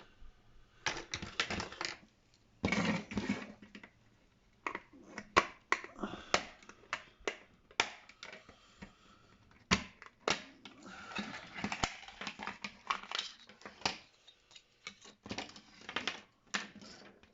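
The housing of an LED ring light being worked open by hand: an irregular run of sharp clicks, snaps and scrapes, with short pauses between.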